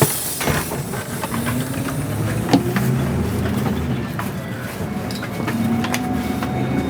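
Inside a moving bus: the engine runs with a steady low hum, and the body rattles and clicks over the road, a shaky ride.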